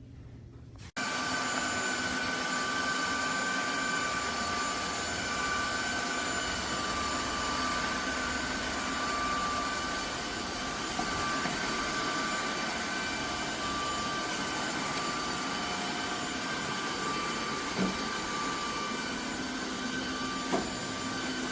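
Vacuum cleaner running steadily, with a high, even whine over its motor and airflow noise, starting suddenly about a second in. Two light knocks come near the end.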